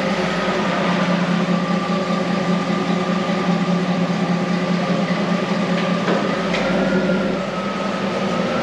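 Steady drone of a running car with a constant low engine hum; a higher tone in it rises slightly about seven seconds in.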